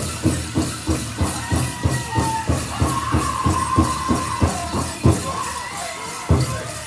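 Powwow drum group singing over a fast, steady drumbeat, with dancers' bells jingling. About five seconds in, the steady beat breaks off into a few single hard drum strikes.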